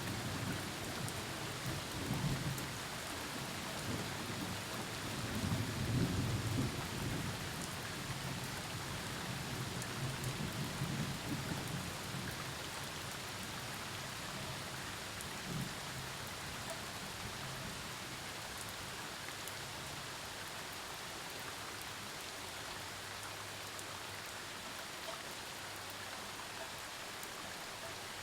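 Thunderstorm: rain falling steadily under low, rolling thunder. The thunder swells to its loudest about six seconds in, rumbles again around ten to twelve seconds, then dies away and leaves the rain alone.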